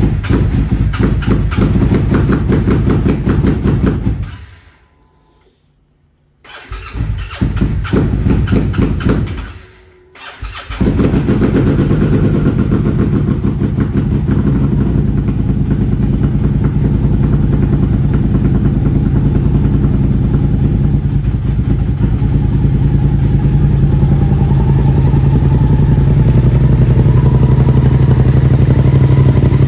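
Yamaha MT-07 parallel-twin with a Yoshimura exhaust on a cold start: it runs for about four seconds and dies away, starts again, dies again around ten seconds in, then catches and settles into a steady idle that gets slightly louder toward the end.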